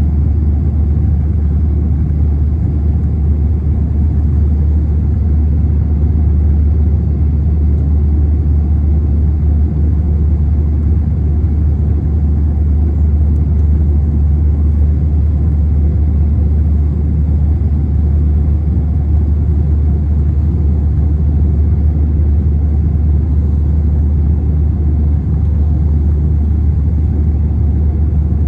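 Steady low drone of an Airbus A321 airliner in flight, heard inside the passenger cabin: engine and airflow noise.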